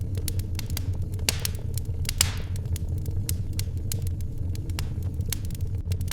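Wood fire crackling in a fireplace: irregular sharp pops and snaps over a steady low rumble, with a short hissing flare about two seconds in.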